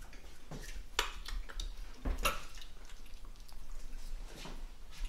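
Mouth sounds of people chewing a dry, crumbly candy: scattered wet clicks and smacks, the loudest about one second and two seconds in.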